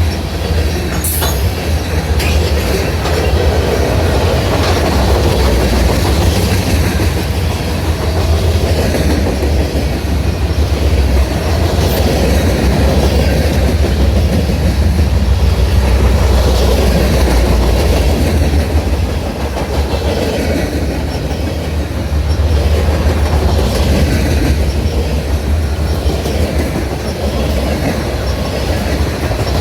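Freight cars of a CSX manifest train rolling past, a steady loud rumble of steel wheels on rail, with a brief high screech about a second in.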